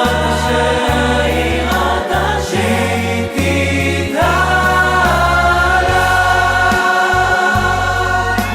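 Hebrew worship song: a choir sings long held notes over a pulsing bass line and backing band, with a new phrase sliding up about four seconds in.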